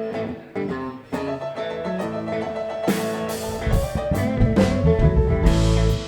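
Live band music: a guitar plays picked notes, then the drum kit comes in with cymbal crashes about three seconds in and a heavy low end fills out under it.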